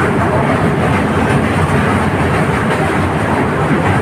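Moving passenger train heard from an open coach doorway: a loud, steady rumble of the wheels running on the rails.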